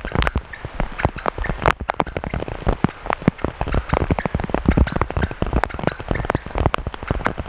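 Heavy rain, a dense, irregular stream of drops striking close by.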